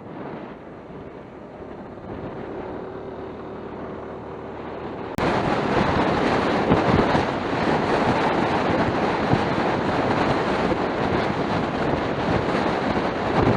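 Wind rushing over an action camera's microphone on a moving big scooter, with the ride's road and engine noise underneath. About five seconds in, the wind noise suddenly gets much louder and stays loud.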